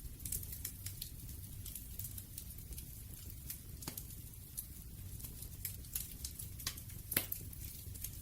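Wood fire crackling: irregular sharp pops and snaps over a low steady rumble, with a louder pop about seven seconds in.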